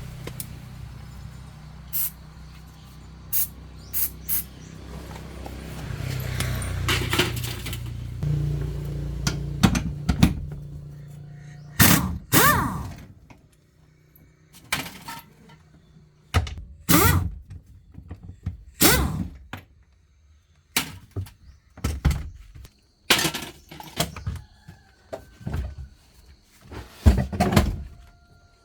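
A vehicle engine running with a steady low hum and scattered clicks, shutting off about twelve seconds in. It is followed by a string of separate sharp clunks and knocks, like metal parts and tools being handled.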